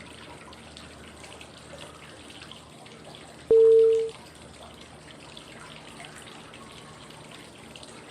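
Steady flowing-water white noise, with one short cue tone about three and a half seconds in: a clean, steady pitch that starts sharply and lasts about half a second. It is the signal to switch breathing phase in a 5-5-5 breathing exercise (inhale, hold, exhale, 5 seconds each).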